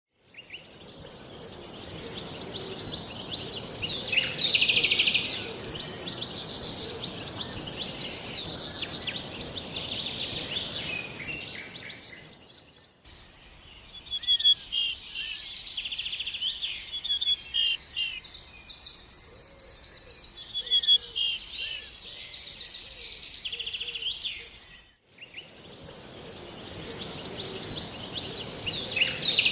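Songbirds chirping and singing, with quick runs of repeated notes. A steady high hiss runs under the birds in the first and last parts. The sound fades out and back in twice, once near the middle and once a few seconds before the end.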